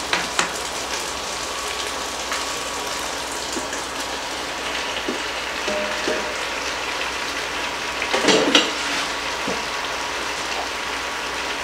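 Sliced beef sizzling steadily as it goes into hot oil in a pot, a continuous frying hiss. A clatter of cookware about eight seconds in is the loudest sound.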